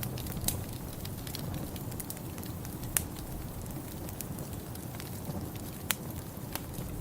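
Wood fire crackling in a fireplace: a steady low rumble of burning with scattered sharp pops, the sharpest about three seconds in.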